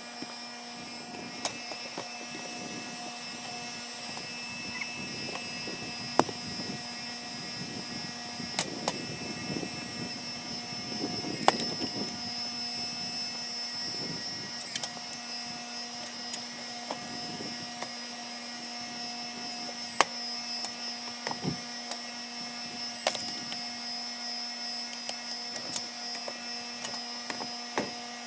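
Engine-driven hydraulic log splitter running steadily, with scattered sharp cracks and knocks of wood being split and a swell of straining noise around the middle.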